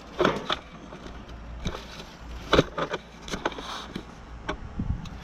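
Scattered clicks and knocks of hands and tools working on an outdoor heat pump unit, loudest about a quarter second in and about two and a half seconds in, over a low steady rumble.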